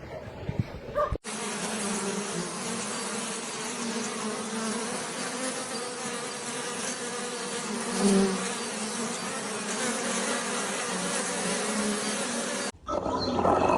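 Insects buzzing in a dense, steady drone with a low hum, swelling briefly about eight seconds in; it starts suddenly about a second in and cuts off abruptly near the end.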